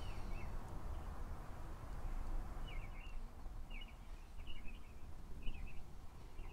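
A small bird chirping in short calls, about once a second from a couple of seconds in, over a low steady rumble.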